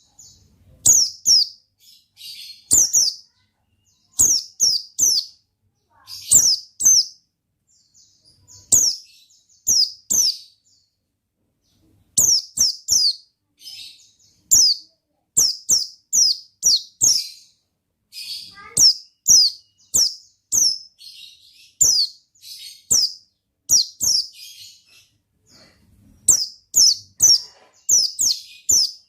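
White-eye (pleci) singing energetically: clusters of two to four quick, high, falling chirps, repeated again and again with short pauses between them.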